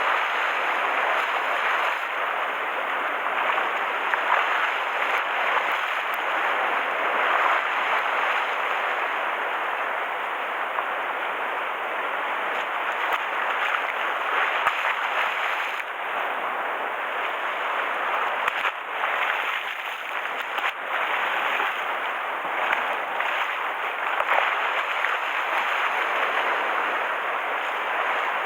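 Steady wash and splash of rough, typhoon-stirred sea waves in Kinko Bay, a continuous surging noise with small swells in loudness.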